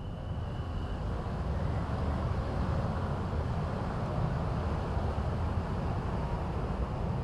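Low rumble of a passing vehicle, building up over the first couple of seconds and then holding steady, with a brief thin high tone in the first second.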